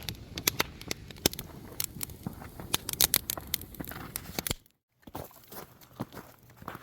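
Freshly lit campfire of resin-rich kindling crackling, with sharp irregular pops several times a second as it catches. It cuts off abruptly about four and a half seconds in, followed by quieter scattered clicks.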